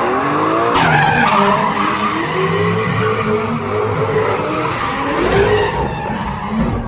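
Drift car engine revving up and down hard while its tyres squeal and skid in a slide. The sound jumps abruptly a little under a second in, as if cut between passes.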